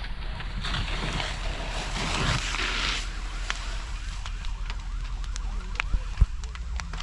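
A burning wooden structure crackling and popping, with sharp pops coming thick after about three seconds and one louder crack near the end. A rushing hiss fills the first three seconds over a steady low rumble.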